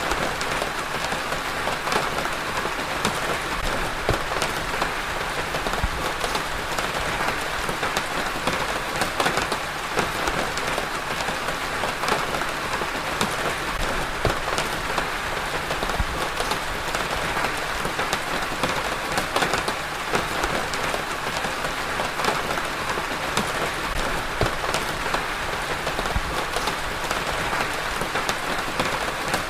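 Steady rain falling on a surface, an even hiss with many individual drops pattering close by.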